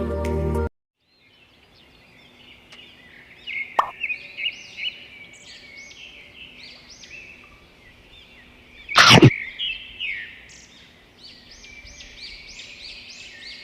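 Small birds chirping continuously, with a few water drops plopping and one louder splash about nine seconds in.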